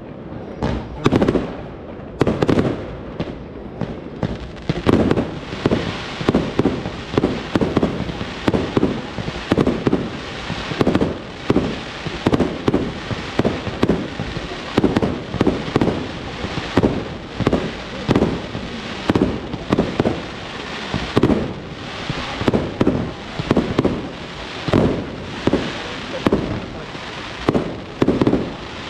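Fireworks display: aerial shells launching and bursting in quick succession, one to two bangs a second, over continuous crackling.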